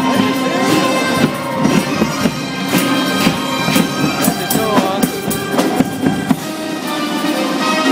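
Music from a holiday drum line: sharp drum hits over sustained instrumental tones.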